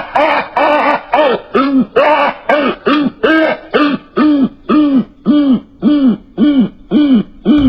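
A bird's call slowed and pitched down so it sounds deep: a steady run of short notes, about two to three a second, each sliding up and then back down in pitch.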